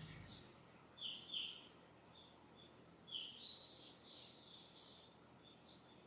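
Distant small birds chirping: a scatter of short, high notes, busiest around three to five seconds in.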